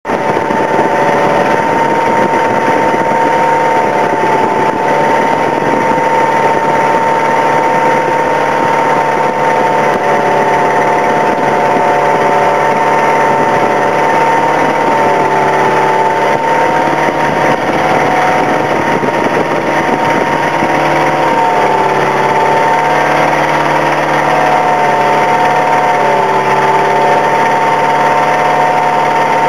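An engine running steadily at a constant pace, its pitch drifting slightly up and down.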